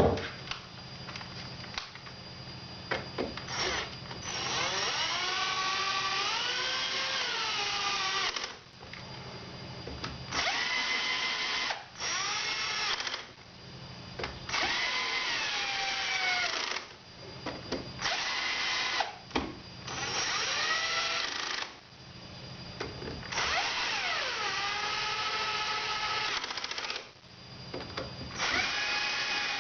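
A small, well-worn drilling machine centre-drilling a bolt-hole pattern. Its motor hums steadily while the bit cuts in about eight separate bouts of one to four seconds each. Each bout carries a squealing tone that bends up and down as the bit bites.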